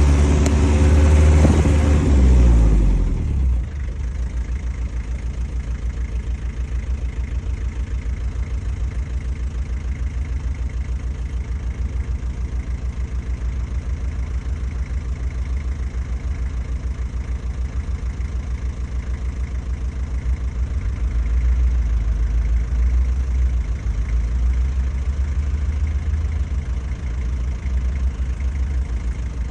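Land Rover Defender 110 engine coming down from higher revs over the first three seconds, then idling steadily with an even low pulse. It gets a little louder about two-thirds of the way through.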